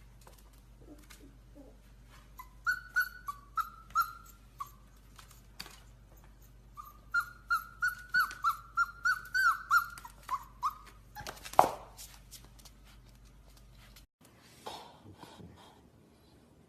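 Puppy whimpering in short high-pitched cries: a few about three seconds in, then a quick string of about ten. A sharp knock follows near the end.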